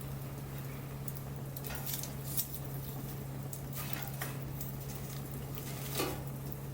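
Wood bonfire crackling: scattered sharp pops and snaps, the loudest about two and a half and six seconds in, over a steady low hum.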